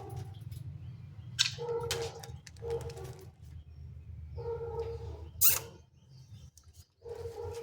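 Pet budgerigars calling: two sharp, high chirps, and a low cooing call repeated about five times, over a steady low hum that stops near the end.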